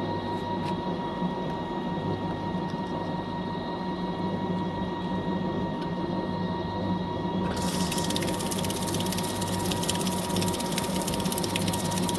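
Fisher & Paykel MW059 washing machine running mid-cycle: a steady motor hum with a thin whine over it. About seven and a half seconds in, a steady hiss joins in.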